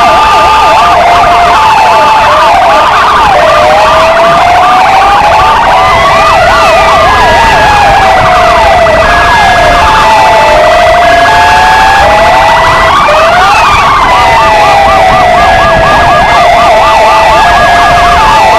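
Several electronic sirens sounding together, very loud: two police-motorcycle sirens of the Argentine Federal Police and two Kingvox ERP sirens. A slow wail rises and falls, peaking about every seven seconds, over a fast yelp and a two-tone high-low.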